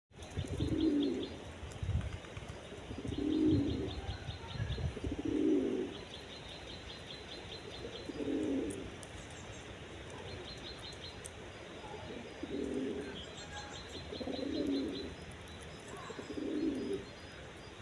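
A pigeon cooing in low notes, one about every two seconds, with faint rapid high-pitched chirps from a small bird, a tit, in between.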